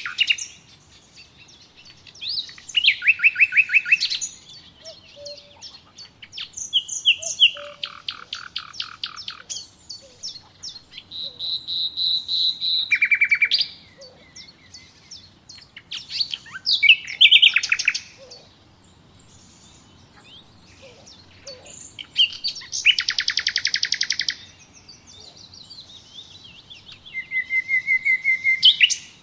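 Songbirds singing in the wild, one loud phrase after another every couple of seconds. The phrases are rapid trills and quickly repeated high notes, with fainter chirps from other birds in between.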